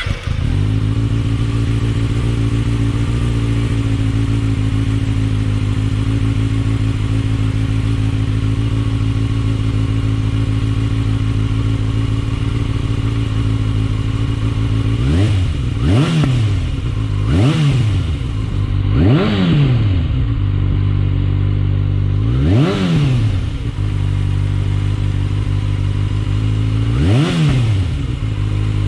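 Kawasaki ZX-6R's inline-four engine breathing through an Akrapovic titanium slip-on muffler, idling steadily, then blipped five times. Each blip is a quick rev that climbs and drops straight back to idle.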